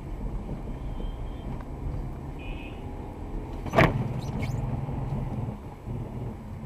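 Car running along the road, a steady low engine and road noise, with one sharp knock about four seconds in.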